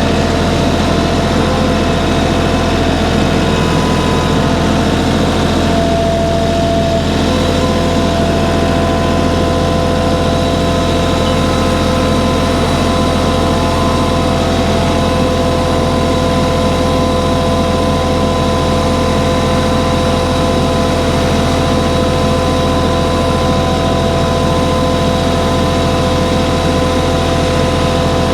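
Tractor engine running steadily at an even pitch while the tractor hauls logs down a steep hill trail.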